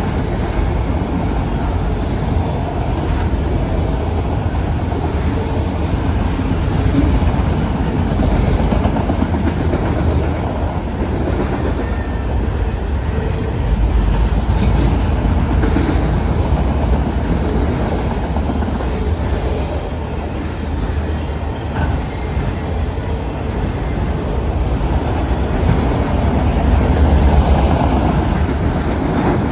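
Freight cars of a long Norfolk Southern manifest (mixed freight) train rolling past: a steady rumble of steel wheels on rail with a few faint clicks.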